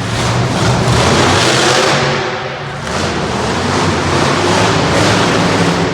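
Demo Derby monster truck's engine revving hard in a freestyle run, loud and continuous, easing off briefly a little over two seconds in before surging again.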